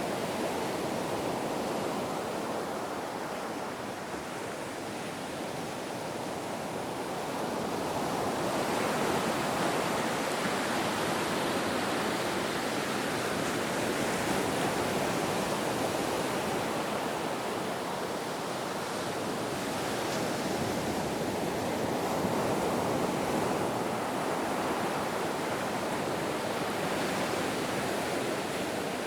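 Ocean waves breaking and washing in surf, a continuous rushing that swells and eases slowly, with a softer lull a few seconds in and another about two-thirds of the way through.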